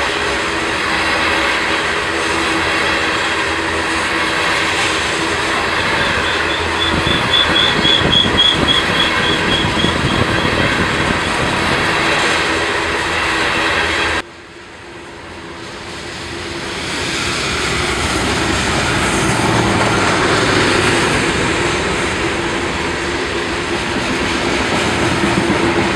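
Freight train of coal hopper cars rolling past: a steady rumble of steel wheels on rail with some clickety-clack over the joints, and a high pulsing squeal from about 6 to 10 seconds in. About halfway the sound drops away abruptly, then builds back up as the cars keep passing.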